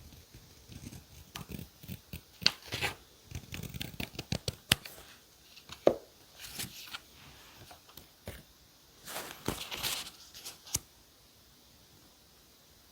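Paper-journal decorating sounds: an irregular run of short tearing or peeling sounds, rustles and sharp taps, ending about eleven seconds in.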